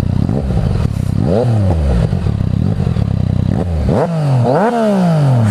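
2016 Yamaha MT-09's 847 cc inline-three engine through a full Akrapovic exhaust system, running and revving: the revs rise sharply and fall away about a second in, then twice more in the second half.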